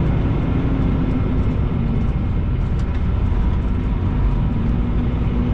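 Semi-truck's diesel engine running steadily, a low even drone with a faint constant hum through it.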